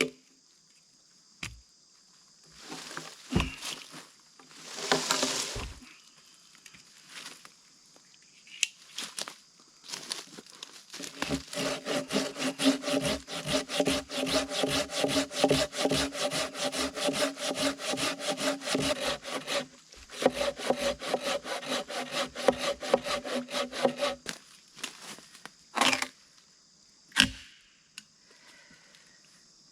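Hand saw cutting through wood in quick, steady back-and-forth strokes, with a brief pause about two-thirds of the way through. Short knocks and rustles come before and after.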